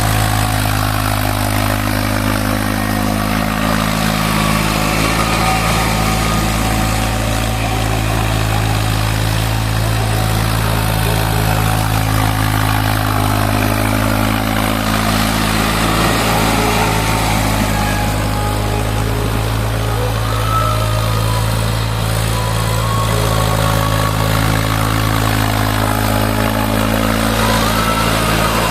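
Eicher 480 tractor's diesel engine running steadily at a constant pitch while puddling a wet field.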